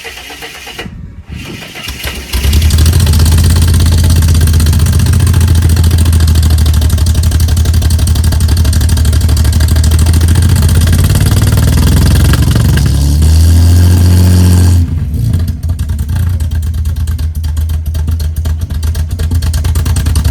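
Ford AU Falcon 4.0-litre inline-six cranking and catching about two seconds in, on its first start through a newly built custom muffler and side-exit exhaust, then running loud and steady. Near the thirteen-second mark it rises briefly, then drops back to a quieter, uneven idle. The owner says the ignition timing is a bit off.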